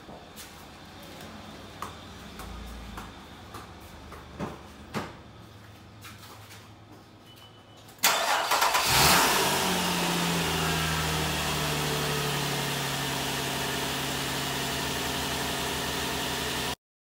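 2004 Nissan Murano's 3.5-litre V6 cranking and catching about eight seconds in, revving briefly, then settling into a steady idle with its pitch easing down. Before it starts there are only a few faint knocks.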